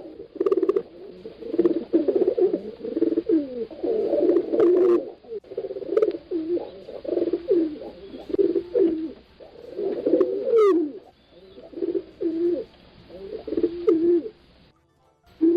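Pigeons cooing, low throaty coos repeating with several calls overlapping one another.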